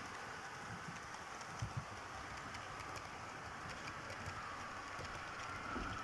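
Model locomotive running on the layout with no sound decoder, so only its mechanism is heard: a faint steady motor whine with light clicks of the wheels over the track. Two soft knocks come about a second and a half in.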